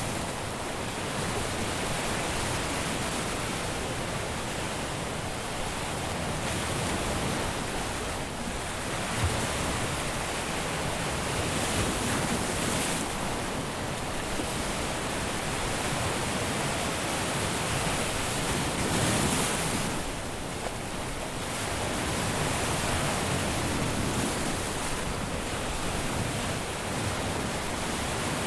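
Caribbean surf breaking and washing onto a beach, a steady rush of water that swells and eases every few seconds.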